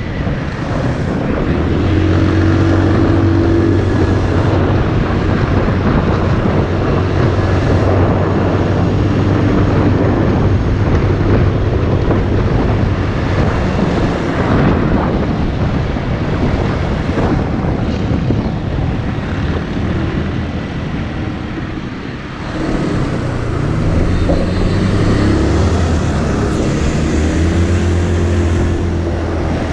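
Motorcycle engine running at a steady pitch under wind rush on the microphone while riding. About three-quarters of the way through it eases off briefly, then the engine pitch rises and falls as it picks up again.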